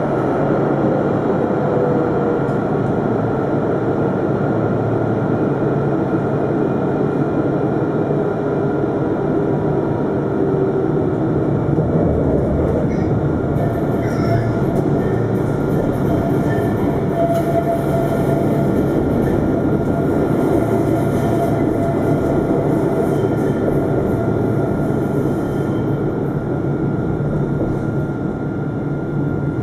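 Alstom Citadis 402 tram running between stops, heard from inside the car: a steady rumble of wheels on rail, with a faint electric traction-motor whine that slowly shifts in pitch.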